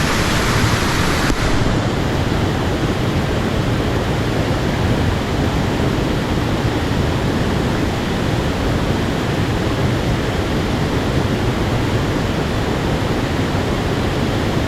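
Steady rush of a mountain stream's tumbling water, an even hiss that softens slightly in its upper range about a second in.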